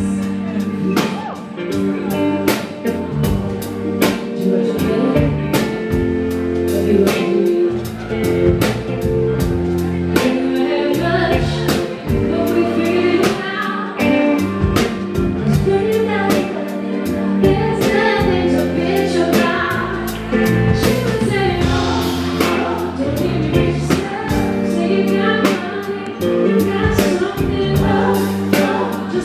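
Live soul band playing with a female lead singer and backing vocals over a steady drum beat and bass.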